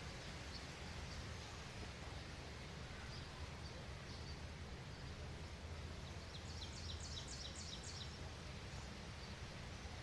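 Outdoor nature ambience: a steady background hiss and low rumble, with a few faint, short, high bird chirps and, about six and a half seconds in, a quick run of about ten high chip notes from a small bird.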